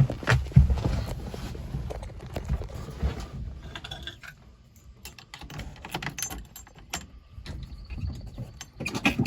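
Irregular clicks, knocks and key jingling from a 1977 K5 Blazer being opened and got into before a cold start, with a few heavier thumps in the first second. The engine is not yet running.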